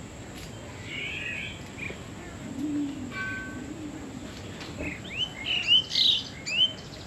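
Several birds calling in an aviary: low, soft arched notes and scattered chirps, then a quick run of sharp, rising chirps in the second half, the loudest sound.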